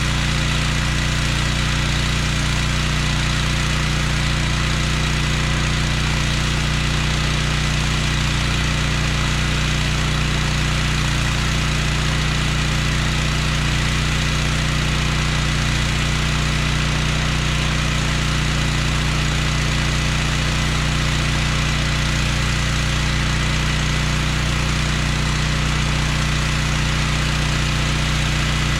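Gas-engine pressure washer running steadily under load, with a constant hiss from the spray.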